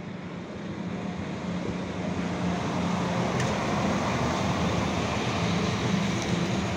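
Regional multiple-unit passenger train pulling into the platform: a steady low drone with rail and running noise growing louder as it comes in close and passes.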